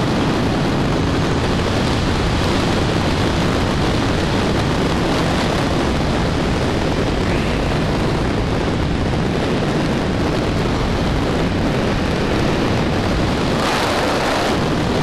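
Royal Enfield single-cylinder engine running steadily under way, heard through heavy wind rush on a helmet-mounted camera microphone, with a louder surge of wind noise near the end.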